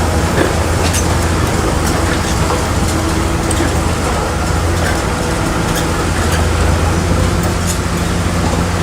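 Heavy diesel engine of an earthmoving machine running steadily under load, with light metallic clicks and clanks scattered through it.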